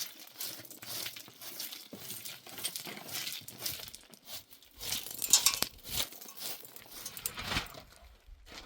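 Irregular crinkling and rustling with light clinks, a run of short crackles that is loudest about five seconds in.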